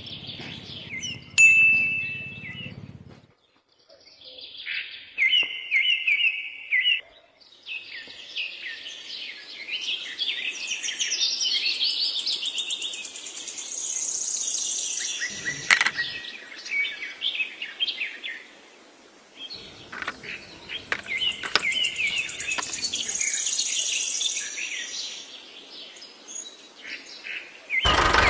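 Birds chirping and singing, a steady run of short, quick chirps and trills. A sharp click is heard about halfway through.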